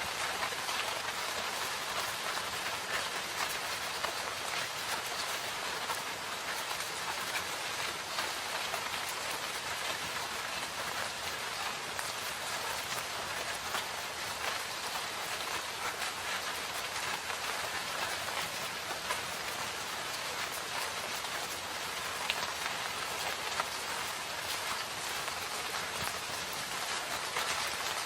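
Steady rain falling in a forest, a dense even patter with individual drops clicking here and there.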